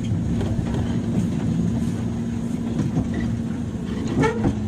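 Inside a JR 103 series commuter electric train car: a steady low hum with a few scattered clicks and knocks, the clearest about four seconds in.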